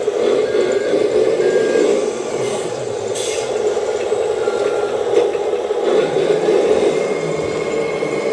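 Radio-controlled scale model truck running with a steady mechanical buzz, with a few short electronic reversing beeps in the first couple of seconds and one more midway.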